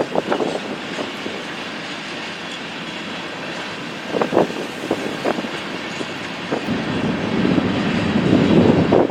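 Train rolling past on the tracks: a steady rumble with a few sharp clanks about four and five seconds in, growing louder near the end.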